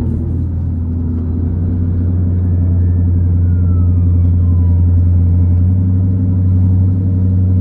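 Steady low engine and exhaust drone of a Chrysler 300 cruising slowly, heard inside the car's cabin, growing a little louder partway through.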